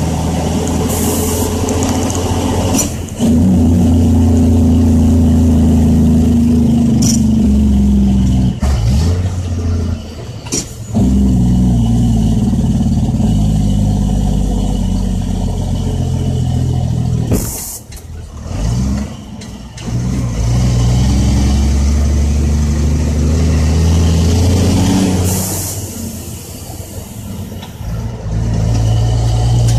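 Loaded dump truck's Caterpillar C10 diesel engine running under load, its pitch slowly rising and falling, dropping away briefly several times for gear shifts. Short air hisses come three times.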